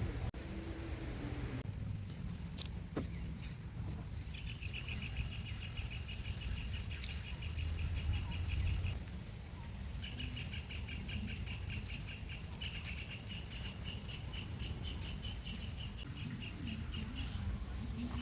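Strong wind buffeting the microphone, a steady low rumble that swells near the middle. Over it a high, rapid trill sounds twice, from about four seconds in and again from about ten seconds in, each lasting several seconds.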